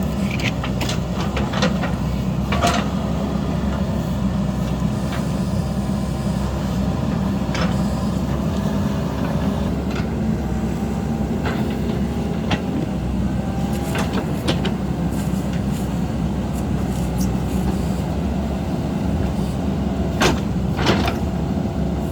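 JCB backhoe loader's diesel engine running steadily under work, with short sharp knocks scattered through and a pair of them near the end.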